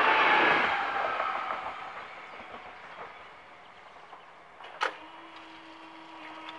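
An agilis class 440 electric multiple unit running away from the level crossing, its noise fading over the first two seconds. About five seconds in comes a sharp clunk, then a steady hum as the crossing's electric barrier drive lifts the booms after the train has passed.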